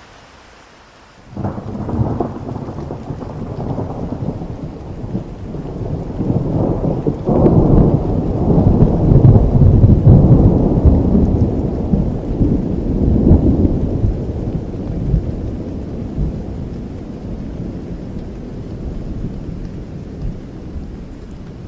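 Steady rain with a long roll of thunder. The thunder breaks in suddenly about a second in, swells to its loudest around the middle, and then rumbles slowly away.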